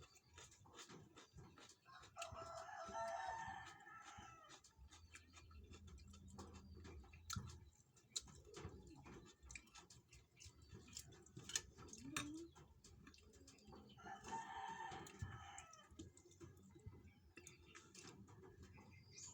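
A rooster crowing twice, each crow about two seconds long and about twelve seconds apart, over faint scattered clicks and taps.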